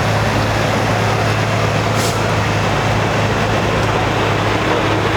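Loud, steady drone of a pulling tractor's engine running hard under load on the pulling track. A brief sharp click about two seconds in.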